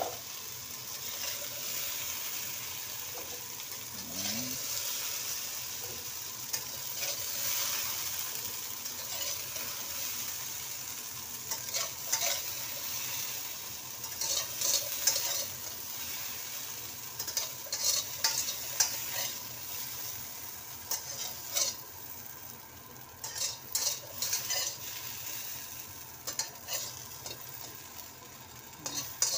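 Diced potatoes sizzling in hot oil in a nonstick wok while a slotted spatula scoops them out, scraping and clicking against the pan. The sizzle grows quieter in the second half as the wok empties, and the short spatula clicks come more often.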